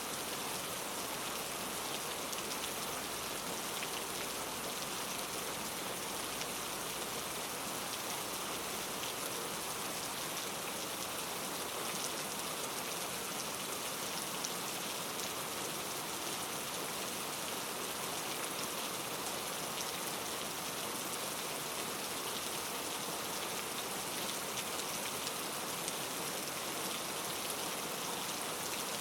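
Steady rain falling, an even hiss with fine scattered drop ticks, unchanging throughout.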